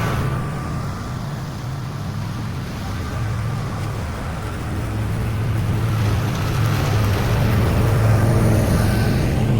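Zero-turn riding mower's engine running steadily while mowing, dipping a little early on and growing louder toward the end.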